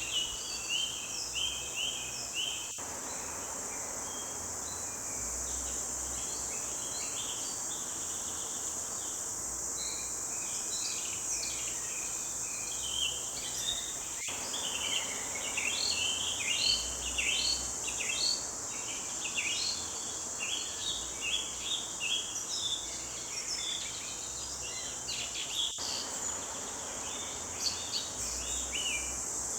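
A chorus of forest songbirds, many short chirps and trills overlapping, over a steady high-pitched insect drone.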